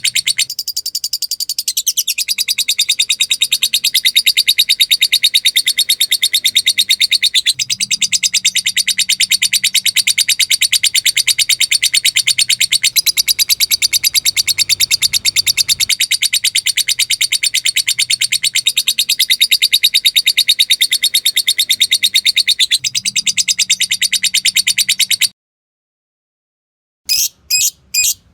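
Lovebird giving a long 'ngekek': a continuous, very fast high-pitched chattering trill that breaks off about 25 seconds in. After a short silence, separate sharp chirps follow at about two to three a second near the end.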